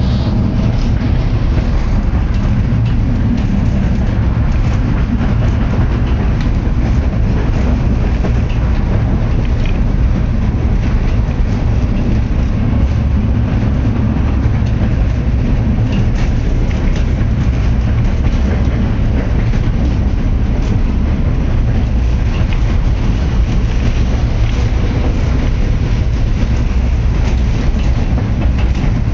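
A rail vehicle in motion: a steady, loud low rumble with faint scattered clicks of wheels on the track.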